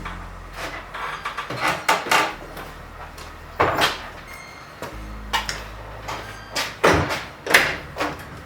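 Irregular clicks, knocks and scrapes of parts and tools being handled during steering column installation, about a dozen separate strokes with the sharpest knocks near the end.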